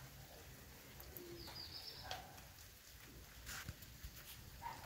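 Near silence: quiet room tone with a faint bird call about a second and a half in and a few soft clicks.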